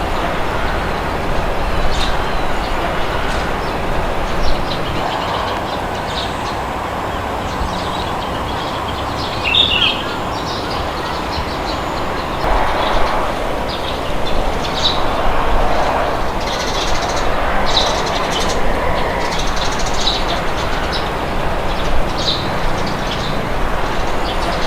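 Steady wind blowing with a low rumble, and birds chirping now and then over it, more often in the second half.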